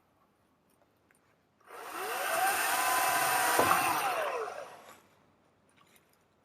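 Electric chainsaw spinning up with a rising whine, running flat out for about two seconds, then winding down. It is silent before and after, with no idle.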